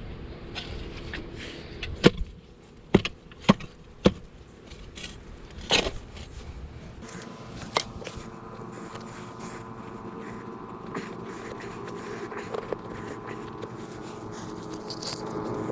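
A hand digging tool striking and scraping into hard ground: a run of sharp strikes between about two and six seconds in, one more near eight seconds, then lighter scraping over a steady faint hum.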